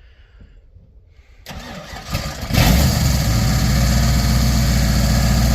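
1992 Ford F-350 tow truck's engine being cranked by the starter about a second and a half in, catching after about a second, then running steadily and loud at idle.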